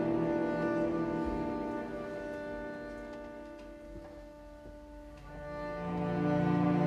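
Chamber string orchestra playing long held chords. The sound thins and grows quieter toward the middle, then swells again as the cellos and basses come in low and strong about five seconds in.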